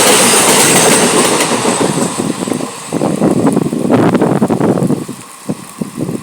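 Train passing close by: a loud rush of wheels and wind, then irregular clacking of wheels over rail joints. It drops away to a few separate clacks near the end as the last coaches go by.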